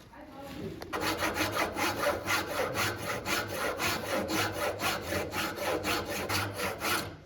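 Hand saw cutting into Indian mahogany with quick, even back-and-forth strokes, about four a second, starting about a second in: sawing the angled dado grooves of the stand.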